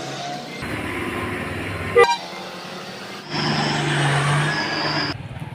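Road traffic with trucks running, in short clips one after another, with a brief sharp horn toot about two seconds in and a louder stretch later carrying a steady low tone.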